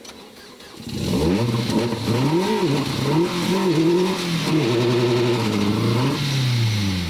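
Rally car engine coming in loud about a second in, revving up and down several times through gear changes, then dropping in pitch as it passes and fades away.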